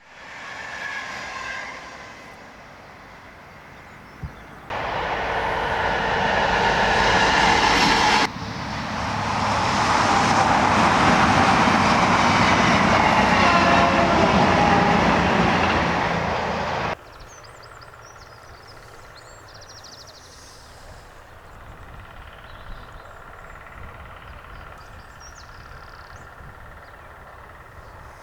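Trains passing through a station without stopping, in several cut-together clips. The loudest pass swells up and then cuts off abruptly about two-thirds of the way in, leaving a quieter, steady background.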